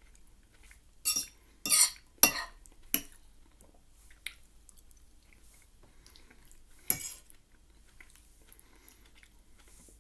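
Cutlery scraping and clinking against a dish: four quick strokes in the first few seconds, then one more about seven seconds in.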